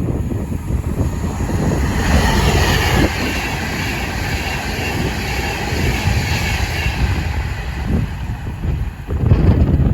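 Train running through the station: a loud, continuous rumble of wheels on rail with a hiss of track noise that swells about two seconds in and eases after about seven, then a low surge near the end.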